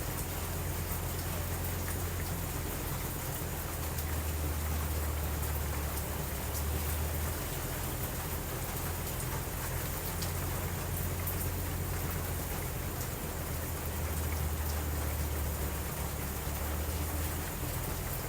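Steady rain falling, with a continuous low rumble underneath and a few faint scattered clicks.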